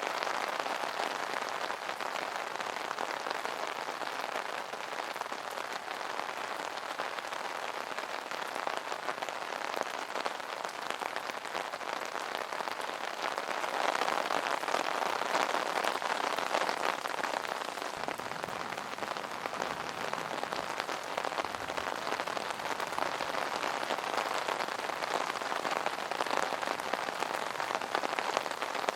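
Rain falling on an umbrella: a steady patter of drops on the fabric canopy, growing a little heavier for a few seconds about halfway through.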